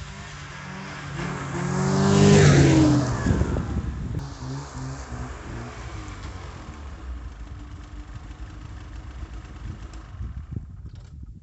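Snowmobile engine running under throttle, building to its loudest about two and a half seconds in. It then runs more steadily and drops away near the end.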